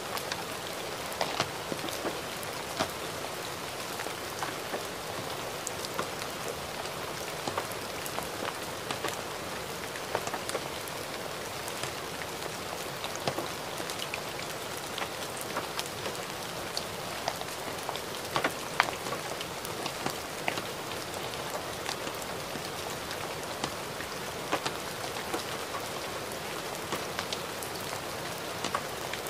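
Steady light rain falling, with scattered sharp taps of individual drops.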